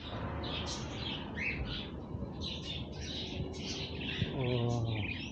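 A group of small birds chirping continuously, many calls overlapping. A short, low, voice-like sound comes about four and a half seconds in.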